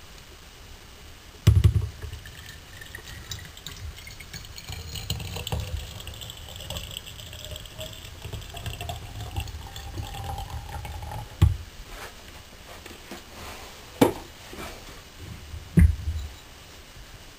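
Water being poured into a vacuum flask, the pitch of the filling rising steadily as the flask fills, followed by a few sharp knocks.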